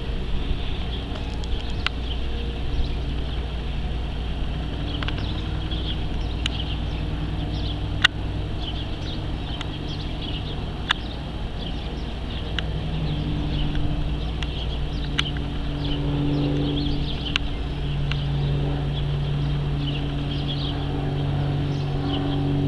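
A vehicle engine running steadily, its pitch shifting slightly now and then, with many short high chirps and a few sharp ticks over it.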